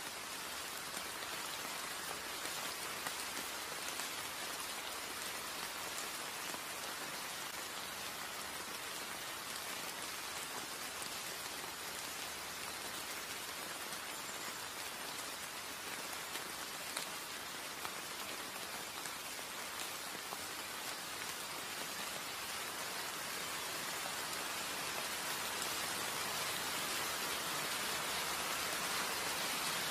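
Light rain falling on wet stone paving, a steady even hiss that grows a little louder toward the end.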